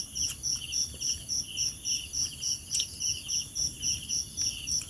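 Night insects calling together: a high chirp repeating evenly about four to five times a second, a lower pulsing trill, and a steady high-pitched hum beneath them.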